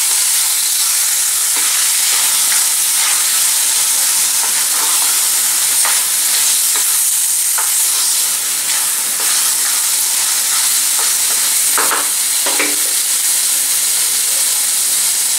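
Raw chicken pieces sizzling in hot oil and tomato-onion masala in a pressure cooker pan: a steady frying hiss, with scattered scrapes of a wooden spatula stirring against the pan.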